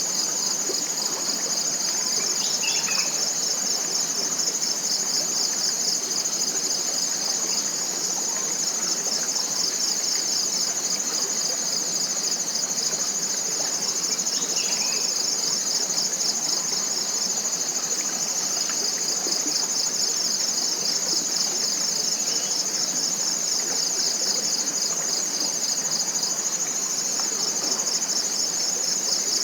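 Steady chorus of forest insects: a continuous, high-pitched, finely pulsing trill over a soft background hiss, with two faint bird chirps, one a couple of seconds in and one about halfway.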